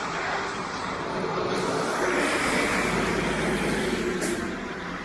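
Road traffic in the rain: a vehicle passes close, its tyres hissing on the wet street, loudest in the middle. There is one sharp click near the end.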